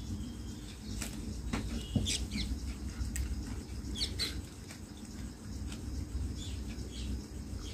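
Short bird chirps in small groups over a steady low hum, with a few light clicks about a second and two seconds in.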